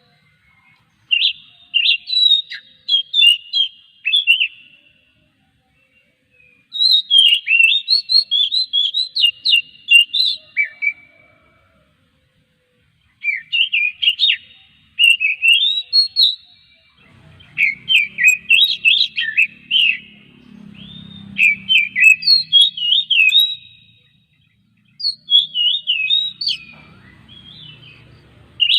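Oriental magpie-robin singing: bursts of rapid, varied whistled phrases that jump up and down in pitch, broken by short pauses.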